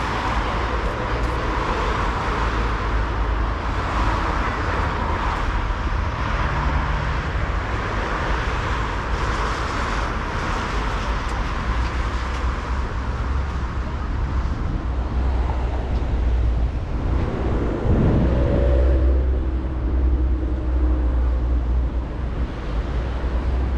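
City street traffic: a steady rumble of passing cars and tyre noise, with one vehicle passing close and louder about 18 seconds in.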